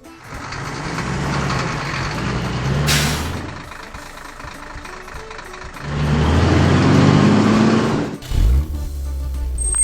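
Heavy truck's diesel engine running, then revving up again about six seconds in. A short sharp hiss of the air brakes comes about three seconds in.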